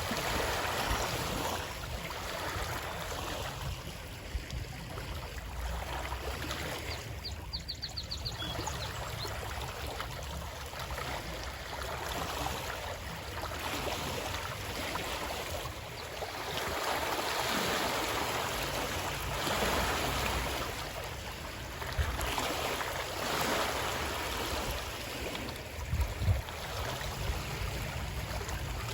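Rushing water, swelling and fading every few seconds over a low rumble, with a few soft thumps in the second half.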